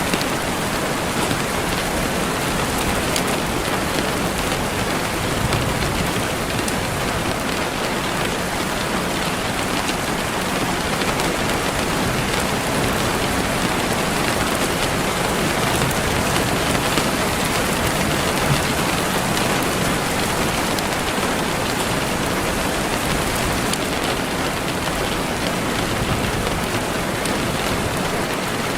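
Steady rain falling and pattering on a surface, an even hiss with fine drop ticks.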